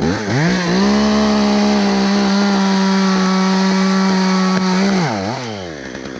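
Chainsaw revved up to full throttle and held steady for about four seconds, then let back down to idle near the end, as a pine limb is cut.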